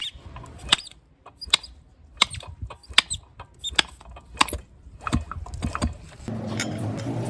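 A dozen or so sharp, irregular clicks and taps of small metal parts and tools being handled. A steady motor hum starts up about six seconds in.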